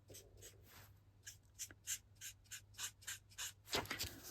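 Alcohol-based blending marker dabbing quick little strokes of colour onto cardstock: a faint run of soft scratchy taps, about three a second.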